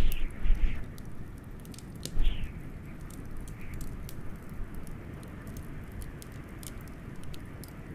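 Wood fire crackling, with many sharp little pops, over a steady low rush of wind. A few louder low bumps come near the start and again about two seconds in.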